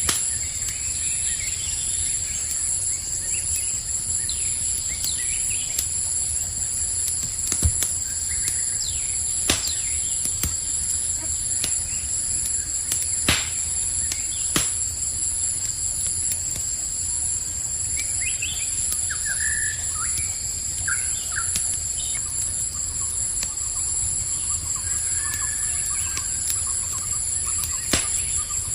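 Campfire crackling with a low steady hiss and a handful of sharp pops, the loudest about thirteen seconds in, under a steady chorus of crickets. Bird chirps come through around the middle.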